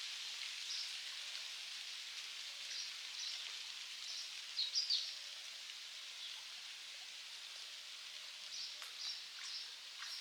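A steady outdoor hiss with birds chirping over it several times, the loudest chirps about four and a half to five seconds in.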